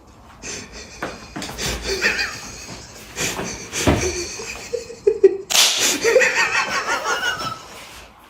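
People laughing, broken by a few sharp smacks; the laughter is strongest in the second half.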